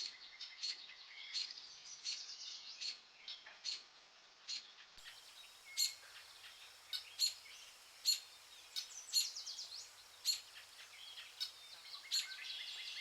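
Birdsong from small birds: many short, high chirps and quick trills, one after another.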